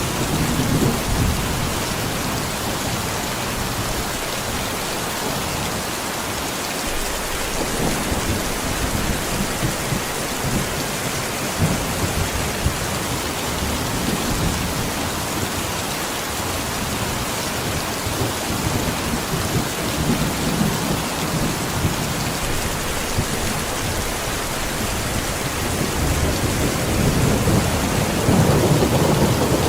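Heavy rain pouring steadily, with low rolls of thunder swelling and fading several times, the strongest near the end.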